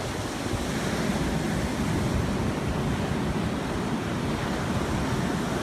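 Surf washing onto the beach, a steady rushing noise with a heavy low rumble, mixed with wind buffeting the microphone.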